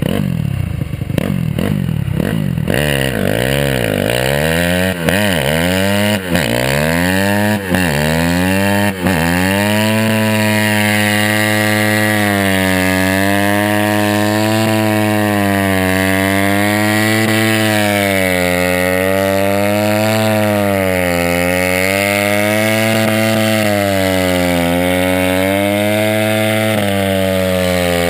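Honda CRF250R's single-cylinder four-stroke engine revved hard for a burnout that spins the bald rear tyre: a few quick rev blips, then held at high revs, its pitch wavering up and down every couple of seconds.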